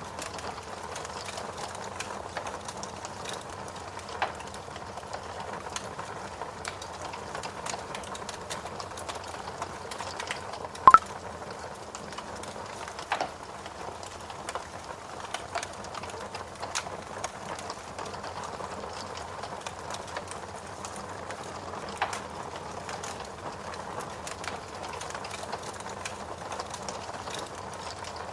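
Steady rain mixed with a wood fire crackling in a fireplace, with scattered sharp pops from the burning wood. The loudest pop comes about eleven seconds in.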